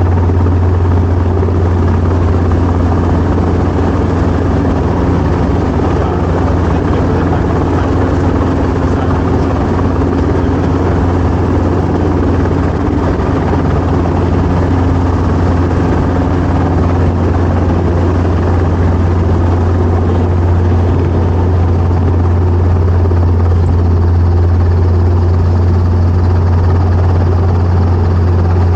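Helicopter engine and main rotor running steadily: a constant low hum with a dense rotor and engine noise over it, unchanging in pitch and level.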